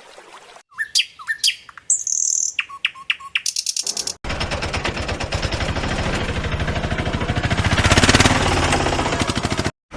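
A run of short bird-like chirps in the first few seconds, then a fast, even mechanical rattle for about five seconds. The rattle grows louder toward the end and cuts off suddenly.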